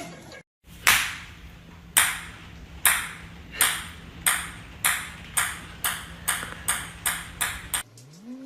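About thirteen sharp, ringing taps that come faster and faster, the pattern of a small hard ball bouncing to rest on a hard surface, over a low steady hum.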